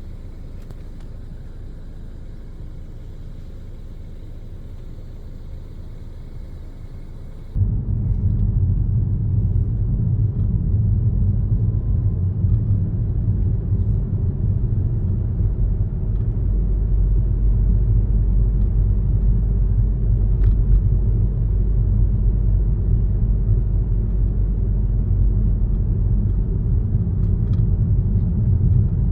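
Car driving on the road: a steady low rumble of tyres and engine, which jumps abruptly much louder about seven seconds in and stays loud.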